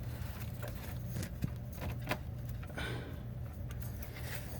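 Scattered light clicks and knocks of hands working plastic fuel-line clips and hose fittings onto a fuel filter, with a brief hiss near the middle, over a steady low hum.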